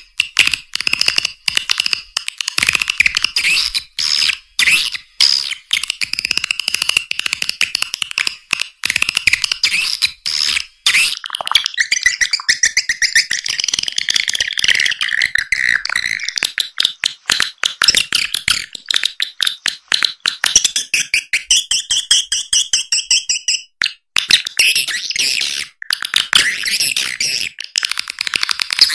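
Swiftlet lure-call recording: a dense run of high-pitched chittering twitters and rapid clicking trills, cut off below about 1 kHz, with a buzzy fast trill in the second half. It is a call track made to draw swiftlets into a nest house.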